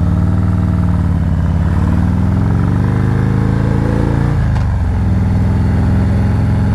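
Harley-Davidson motorcycle's V-twin engine pulling under acceleration. Its pitch rises for about two seconds, drops sharply at a gear change about four and a half seconds in, then runs steadily.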